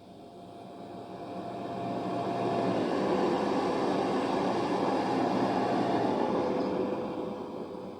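High-speed train passing at speed: the rush of wheels on rail swells and fades, and the engine note of the leading power car drops in pitch as it passes about three seconds in, then the rear power car's note drops the same way about three seconds later.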